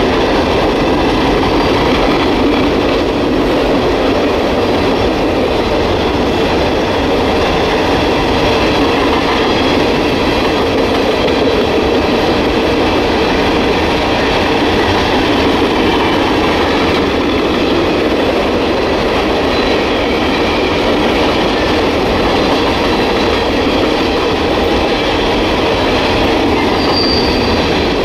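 Freight train of open-top hopper cars rolling past: a steady rumble and rattle of steel wheels on rail, with a faint high squeal of wheels on the curve.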